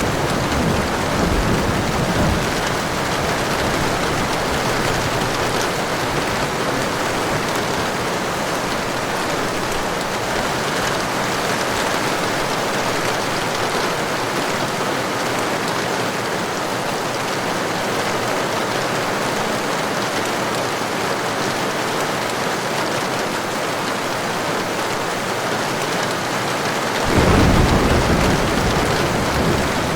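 Heavy rain falling steadily, with a low rumble of thunder dying away in the first couple of seconds and another, louder roll of thunder starting near the end.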